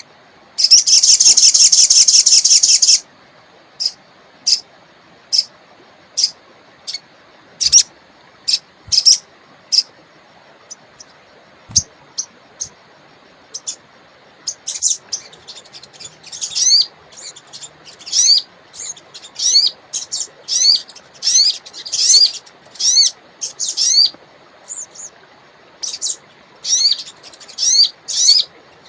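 Sogon songbird calling: a dense, rapid high trill about a second in, then sharp single chirps spaced out over the next ten seconds, and from about halfway a quicker run of short sweeping notes, one or two a second.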